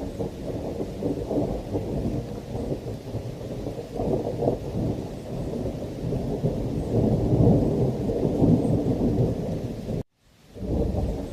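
Thunderstorm ambience: a continuous low thunder rumble over heavy rain, swelling about four seconds in and again around eight seconds. About ten seconds in the sound cuts out abruptly for half a second and fades back in, like the seam of a looped recording.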